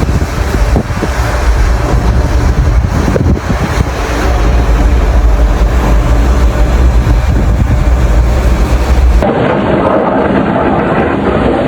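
Blizzard wind buffeting the microphone: a heavy low rumble with gusty rushing noise. About nine seconds in it cuts abruptly to a duller, steady rushing noise.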